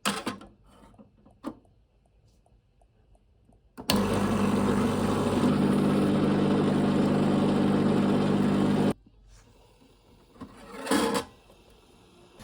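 A small electric motor, likely a household appliance, runs steadily for about five seconds with a low hum under a hiss. It starts and cuts off abruptly, and short knocks come near the start and near the end.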